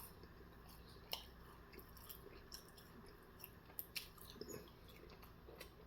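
Faint chewing of food, with a few soft mouth clicks and smacks over near silence.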